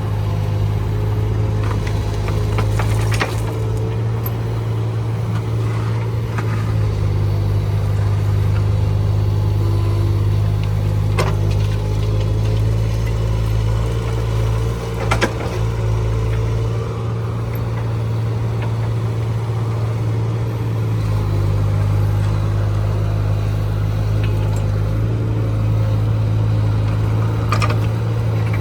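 Mini excavator's engine running steadily under digging load, its note shifting a little now and then. A few sharp knocks are spread through it.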